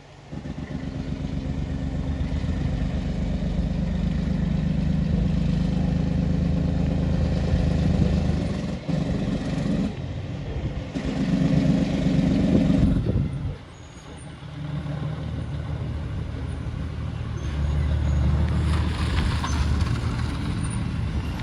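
Heavy truck engine labouring under load on a steep hill. The sound drops sharply about thirteen seconds in, then a truck engine builds again.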